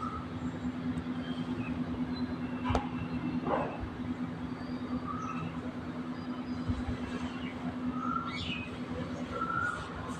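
Parrot giving short chirps and a few brief squawks, over a steady low hum.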